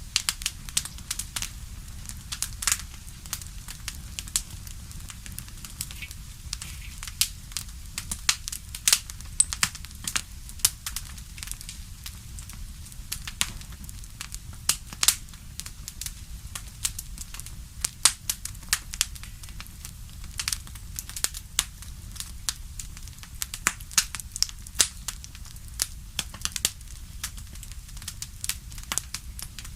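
Wood fire burning in a fireplace: dense, irregular crackling and popping over a steady low rumble.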